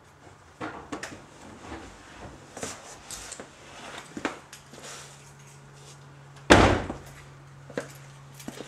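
Steady low electric hum from the 1997 Toyota Supra's fuel pumps running with the engine off, under scattered clicks and knocks and one loud thump about six and a half seconds in, a car door shutting.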